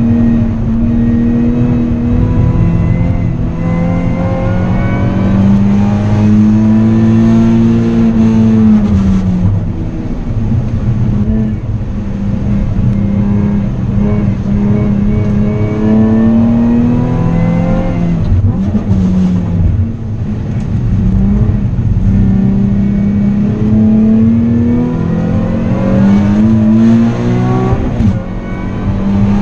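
Nissan 370Z's 3.7-litre V6 heard from inside the cabin at racing pace, revving up hard through the gears with its pitch rising, then falling back at shifts and as it slows for corners, several times over.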